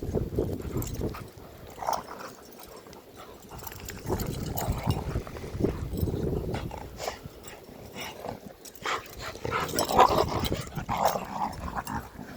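Airedale terriers playing in the snow, growling and giving short barks, loudest about ten seconds in, over low rumbling noise.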